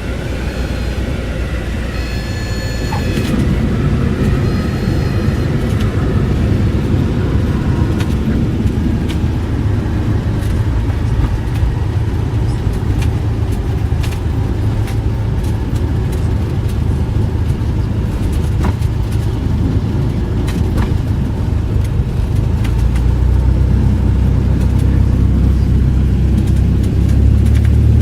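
Cessna 172's single piston engine running steadily, growing louder about three seconds in and again near the end. A short high tone sounds twice in the first five seconds.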